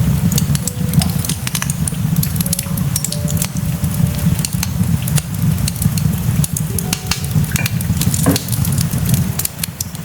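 Cooking in a pan: food sizzling steadily, with many sharp clicks and scrapes of a utensil stirring against the pan. The sizzling drops away near the end.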